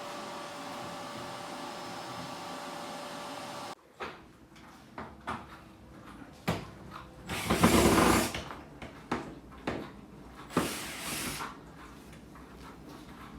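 A vacuum cleaner running steadily, cutting off suddenly a few seconds in. Then scattered knocks and clatter follow, with two louder rushing noises about a second long each.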